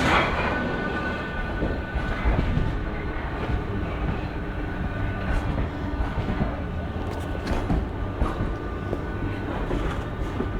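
Metro transfer train rolling along depot tracks: a steady low rumble with a faint steady whine, and a few sharp clicks of wheels over rail joints.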